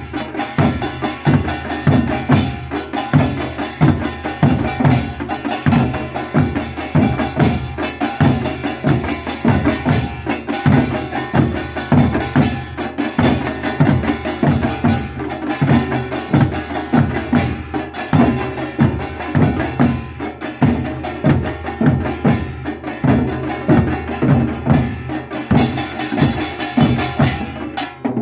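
Korean percussion troupe drumming a fast, driving rhythm without pause: deep drum strokes come several times a second, with sharp, clacking higher strikes over them.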